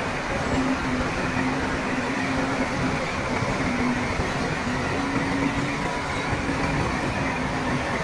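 Heavy diesel earthmoving machinery running steadily, a continuous rumble with a wavering engine hum.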